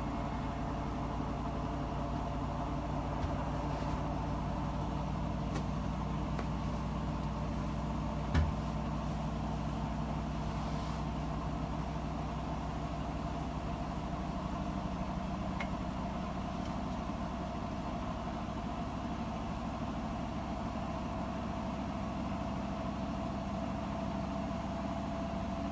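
Hotpoint WMFUG 942 washing machine spinning its drum at speed during an intermediate spin: a steady motor hum and whine, with one tone creeping slightly higher in pitch. One short knock about eight seconds in.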